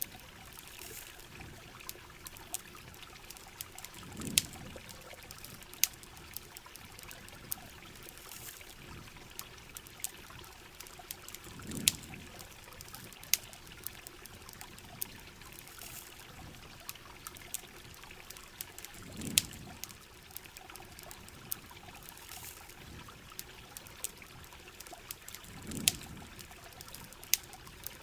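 Mixed rain and campfire ambience: steady rain with trickling water, scattered sharp crackles and pops from the fire, and a soft low whoosh about every seven seconds.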